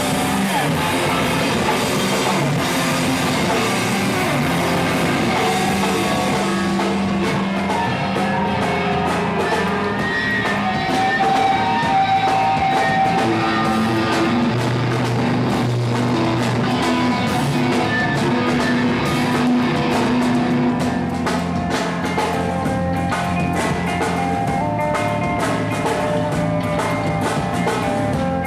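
Live rock band playing: electric guitars, bass and drum kit, with no vocals.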